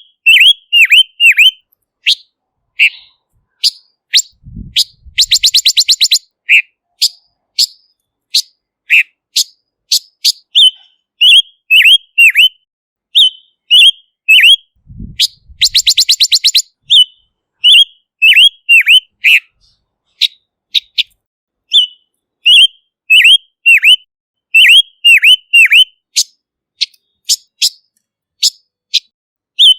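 Silver-eared mesia song: a steady stream of short, clear notes that slide downward in pitch, broken twice by a rapid trill lasting about a second and a half, about 5 s in and again about 16 s in.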